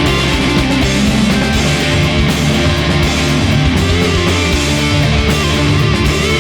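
Stoner metal band playing at full volume: heavy electric guitars over bass and drums, dense and steady.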